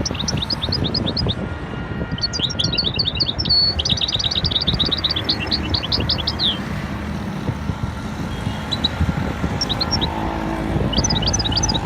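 Small birds chirping in fast trills of quick, high, down-slurred notes, several runs of many notes a second with short gaps between, over a steady low rumble.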